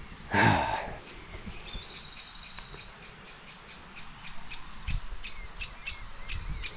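A bird calling from its nest hole in a tree: a trill early on, then a run of short, sharp high calls repeated a few times a second that grows steadier toward the end.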